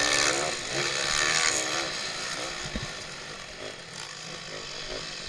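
Pitbike engines racing, their pitch climbing and dropping as they rev through the gears, then dropping to a quieter, steadier drone about two seconds in.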